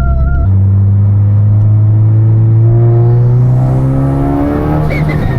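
Big-turbo MK6 VW GLI's turbocharged four-cylinder engine heard through an exhaust microphone, accelerating under load. Its pitch climbs steadily for about four seconds, then eases off near the end.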